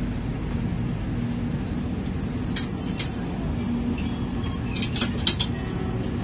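Passenger train rolling slowly, heard from aboard: a steady low rumble with a steady hum, broken by a few sharp metallic clicks and clinks, two a little before the middle and a quick cluster past the middle.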